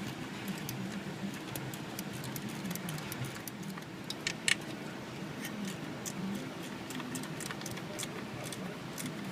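Light, irregular metallic clicks and clinks of hand tools being worked on engine hardware, with one sharper metal clink about four and a half seconds in, over a low steady hum.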